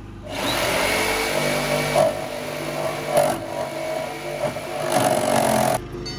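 Power saw cutting a 12-inch hole through the side wall of a school bus. It runs continuously, rising louder twice, and cuts off suddenly near the end.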